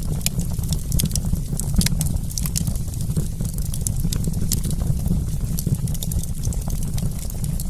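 Wood fire crackling, with many quick sharp pops and snaps over a steady low rumble of burning.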